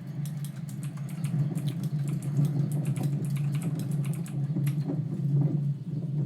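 Computer keyboard typing, a quick irregular run of key clicks, over a steady low rumble.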